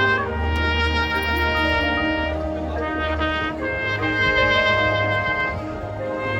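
Marching band brass (trumpets and trombones over low brass) playing held chords, with the chord changing every second or two.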